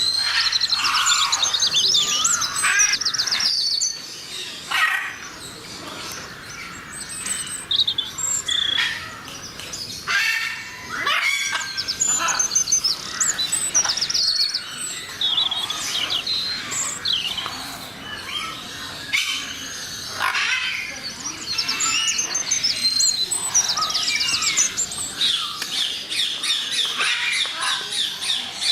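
A flock of birds chirping and calling, many short high calls and trills overlapping.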